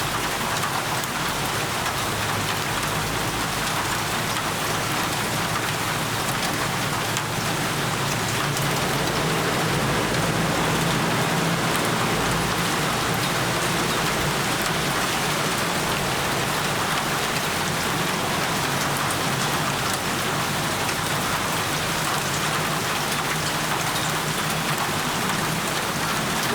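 Steady rain falling: an even, continuous hiss of drops striking surfaces.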